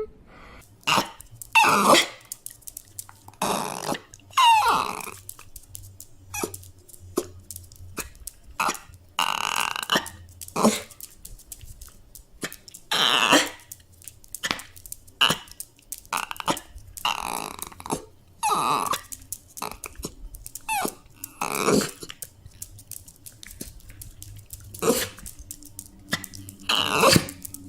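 A dog whining and crying in many short separate cries, about one a second, some of them gliding in pitch.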